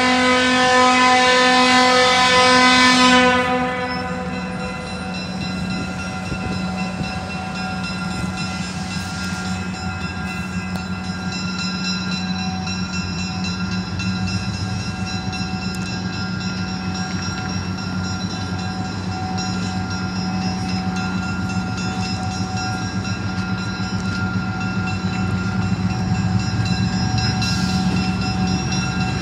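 Train horn sounding one long blast that stops about three and a half seconds in, followed by a passenger train rolling past with a steady low rumble, some held tones and faint clicking over rail joints.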